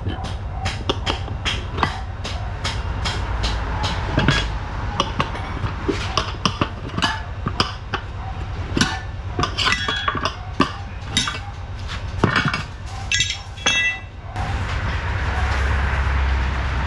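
Metal hand tools clinking, tapping and knocking on motorcycle parts during a roadside wheel repair: a rapid, uneven run of sharp clicks, some of them ringing briefly. About fourteen seconds in the clicking gives way to a steady noisy background.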